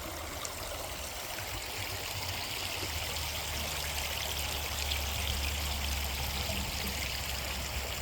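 A small creek running and trickling over rocks between ice and snow, a steady rushing hiss. A low rumble swells in for a few seconds in the middle.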